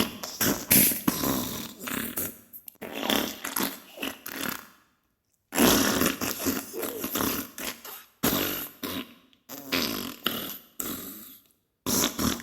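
Diarrhea sound effect: a run of wet, spluttering fart sounds in irregular bursts, broken by two short silences, one about five seconds in and one near the end.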